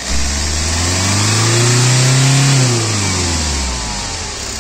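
Toyota Corolla Altis D-4D diesel engine revved once: the pitch climbs over about two seconds, holds briefly, then drops back toward idle.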